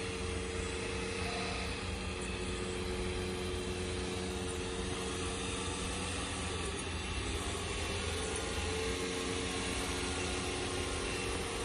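1/14 scale hydraulic RC model tractor running: a steady low hum with a whining tone over it that dips and shifts in pitch a little past halfway and again near the end.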